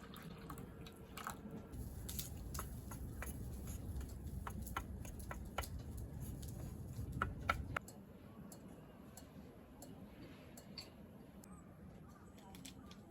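Scattered small clicks and taps from handling things, over a low rumble that stops suddenly about eight seconds in.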